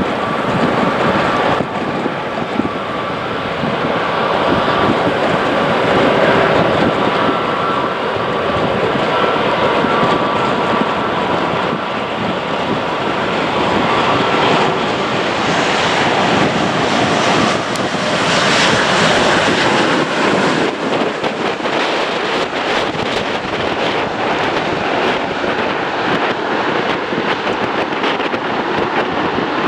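Jet airliner's engines running loud: a steady whine over a dense rush that swells and brightens about two-thirds of the way through.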